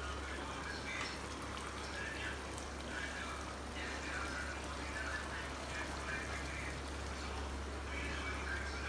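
Thick butter chicken gravy bubbling and sizzling in a clay pot, a steady hiss with soft bubbling, over a low steady hum.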